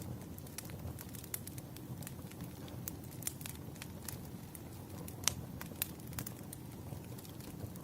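Wood fire crackling: a steady low rumble of burning logs with irregular sharp pops and snaps, two of them louder about five and a half seconds in.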